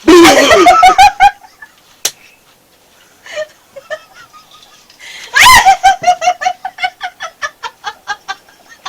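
A woman in a helpless fit of giggles: a loud burst of laughter at the start, then a long run of rapid, high-pitched laughing pulses from about five seconds in that slowly trail off.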